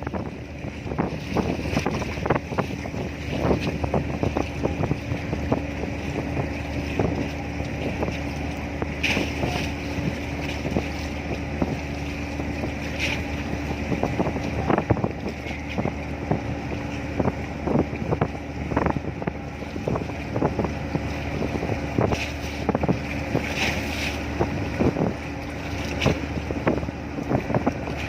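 A ship's engine running with a steady low hum, overlaid by wind buffeting the microphone in many short crackling gusts.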